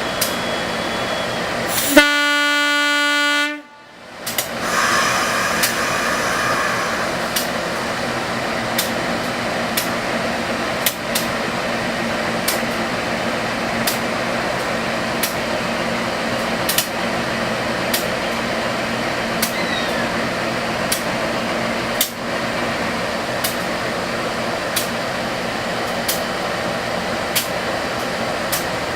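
A train horn sounds one steady blast lasting about a second and a half, and it cuts off abruptly. Then comes the steady rumble of a passenger train running along the track, with short clicks from the wheels every second or so.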